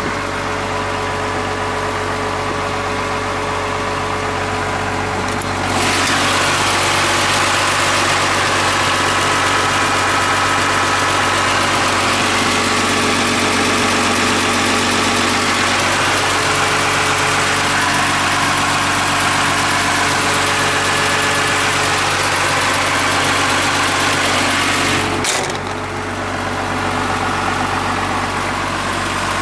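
Komatsu PC200LC-6 excavator's diesel engine running steadily. About six seconds in it grows louder, with more high-pitched noise, and it stays that way until near the end, when it settles back to the quieter running.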